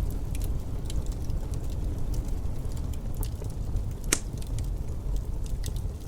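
Wood fire crackling with irregular sharp pops, one louder pop about four seconds in, over a steady low rumble of wind.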